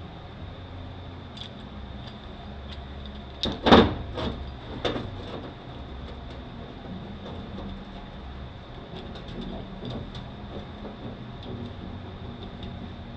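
Metal tools and transmission parts being handled on a workbench: light clinks throughout, and a loud metallic clank about four seconds in, followed by two smaller ones.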